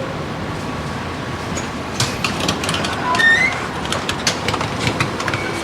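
Tram running on its rails, a steady rumble that turns into a busy clatter of clicks and knocks from about two seconds in, with a few brief high squeaks around the middle.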